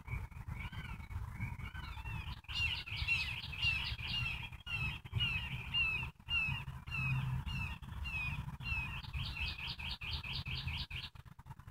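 Birds chirping: a long run of short, arching chirps about three a second, with a faster burst of quick notes near the end, over a steady low rumble.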